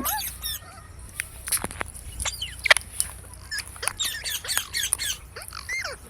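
Green parrots calling: a string of short chirps and squawks, many sliding up or down in pitch, mixed with a few sharp clicks.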